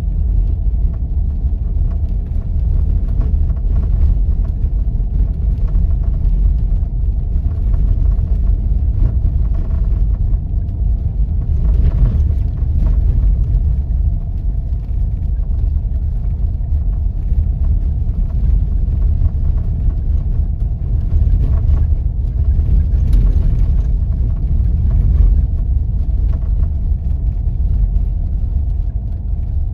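Jeep driving on snow-covered back roads: the steady low rumble of engine and tyres, with a faint steady hum above it.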